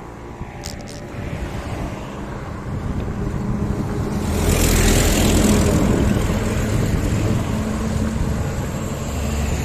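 A motor vehicle approaching and passing close by on the road. Engine and tyre noise build up to a peak about five seconds in, then ease off.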